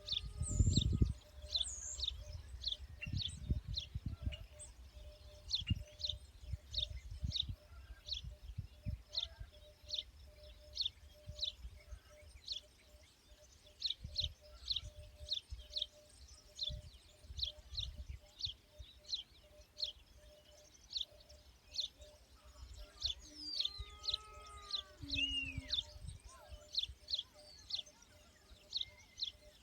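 A bird repeating a short, high chirp over and over, about two to three a second, with a few other gliding calls from another bird near the end. Low rumbling bumps sound underneath, loudest at the start.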